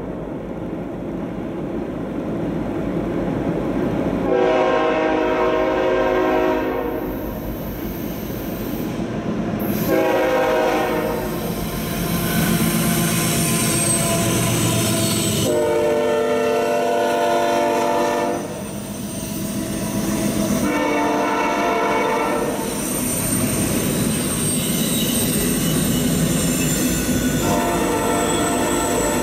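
CSX freight train led by a GE ES44AH diesel locomotive passing close by at about 24 mph, the horn sounding five blasts, two of them long, over the steady rumble of the engines and the wheels on the rails.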